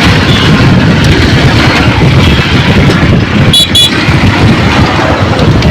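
Loud, steady aircraft engine noise near a runway. About three and a half seconds in there are two short, high beeps.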